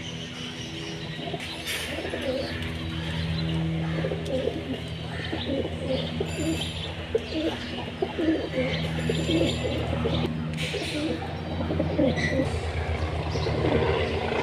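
Birds calling: pigeon-like cooing over a steady low drone, with many short chirps and tweets scattered through.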